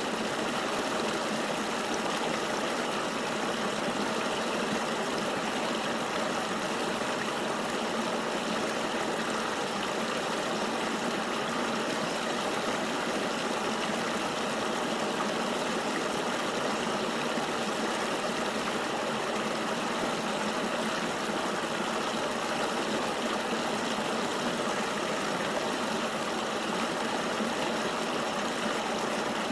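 Flowing river water: a steady, even rush with little deep rumble and no separate splashes.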